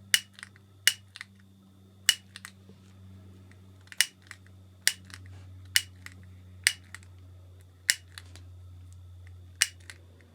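Sharp, irregular clicks and snips from hand tools working plastic model parts, about a dozen over several seconds, each with a short bright ring, over a faint steady low hum.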